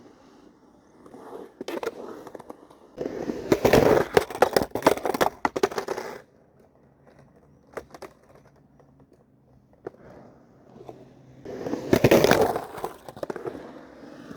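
Skateboard grinding twice: two loud, gritty, rattling scrapes, the first about three seconds long and the second shorter near the end, with quieter wheel-rolling noise and scattered clicks between.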